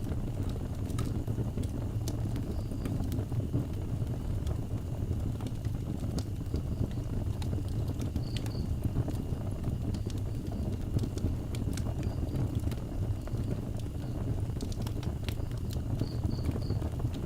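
Wood fire burning, with a steady low rumble and irregular sharp crackles and pops from the burning wood.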